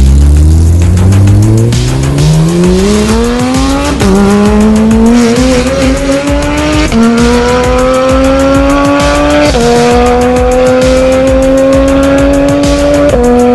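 Porsche 991.2 GT3's naturally aspirated flat-six breathing through an iPE titanium exhaust, accelerating hard. The pitch climbs steadily through the gears, with four quick upshifts where it drops and rises again.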